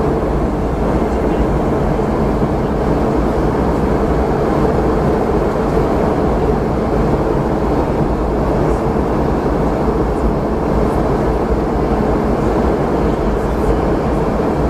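Steady cabin noise of a Boeing 717-200 in flight: airflow past the fuselage and the hum of its tail-mounted Rolls-Royce BR715 turbofans, an even rush with a faint steady tone.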